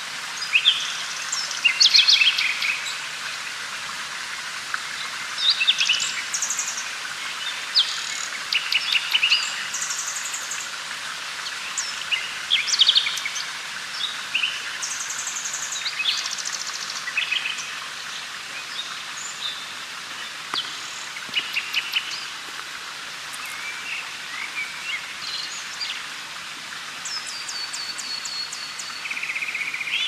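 Several birds singing and calling in woodland, a scatter of short high chirps and trills one after another over a steady hiss.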